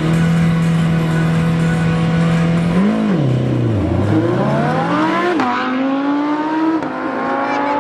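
High-performance engine held at steady high revs on the start line, then launching: revs dip briefly about three seconds in, climb again, and rise in steps with quick upshifts as the vehicle accelerates away.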